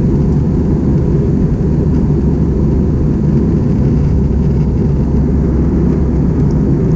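Steady, loud low rumble of an Airbus A320 heard from inside the cabin, engines and airframe noise with no break until it cuts off abruptly at the end.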